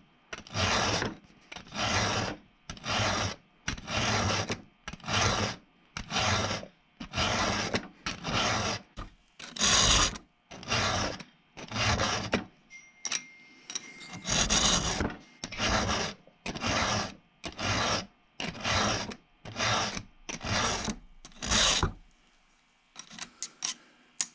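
A 3/16-inch round file rasping across a cutter tooth of a .325 chainsaw chain on a Husqvarna 51, in steady strokes about once a second, taking off a lot of metal to rebuild a badly damaged tooth. The strokes stop near the end, followed by a few light clicks.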